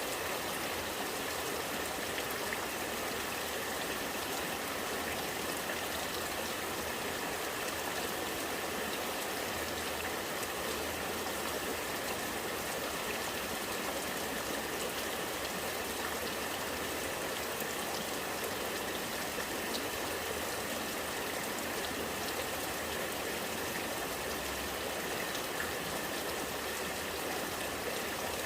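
Rainwater running and gurgling in a steady, unbroken flow.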